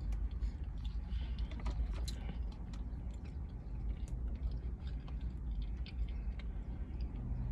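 Close-up chewing of food with the mouth closed: many small wet mouth clicks and smacks over a steady low hum.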